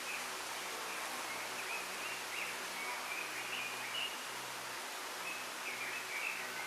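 Small birds twittering in short, quick chirps over a steady rustling hiss of wind in bamboo leaves.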